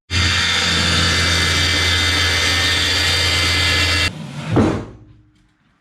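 An electric power tool motor running steadily at full speed with a low hum, starting abruptly and cutting off sharply about four seconds in, followed by a brief falling sound.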